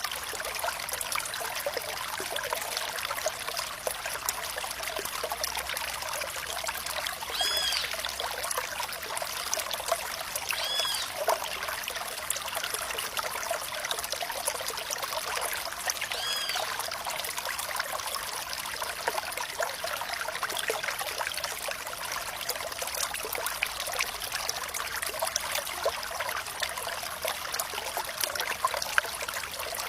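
Water trickling and splashing: a steady hiss full of small drips and splashes, with little low rumble. Three brief high plinking notes rise over it, about 7, 11 and 16 seconds in.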